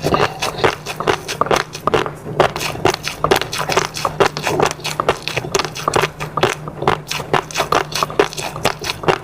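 Close-up eating sounds: rapid, irregular wet chewing clicks and smacks, several a second, over a faint steady low hum.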